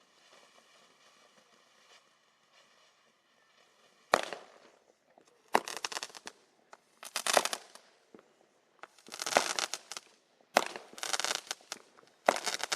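Consumer multi-shot fireworks cake firing: starting about four seconds in, a string of sharp bangs roughly every second and a half, each followed by crackling. It is sold as an up-to-200-gram cake, which the host judges to be at most a 100-gram cake with tubes too small for big breaks.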